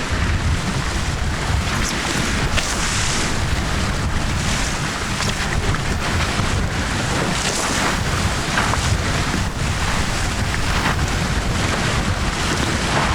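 Heavy wind buffeting the camera microphone over the rush of water past the hulls of a Tornado catamaran sailing fast in strong wind, with brief hissing surges every second or so.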